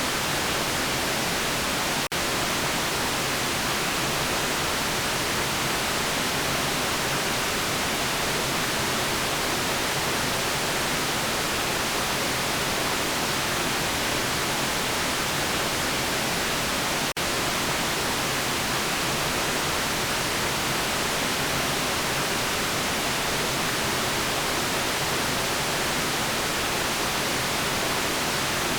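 Continuous synthesized white noise: an even, steady hiss, brightest in the treble, with two momentary dropouts, about two seconds in and again about seventeen seconds in.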